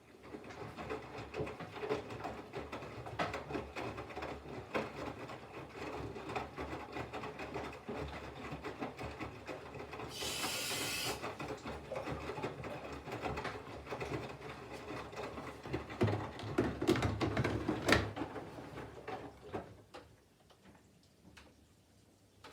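Candy front-loading washing machine's drum turning with wet laundry during the water-heating phase of a 40° colours wash, with clothes tumbling, knocking and clattering. There is a brief hiss about halfway through, and the drum stops shortly before the end.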